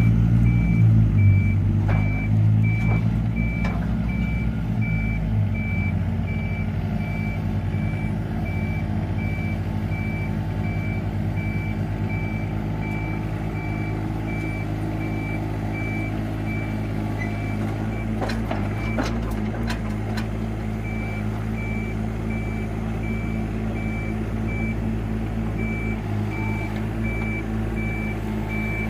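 A vehicle's backup alarm beeping over and over while a diesel engine runs steadily underneath. The beeping stops briefly a little past the middle, and there are a few metallic knocks near the start and again around then.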